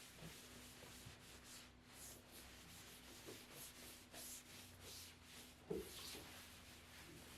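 Faint rubbing strokes, several soft hissing passes over a surface, with one short soft knock about three-quarters of the way through.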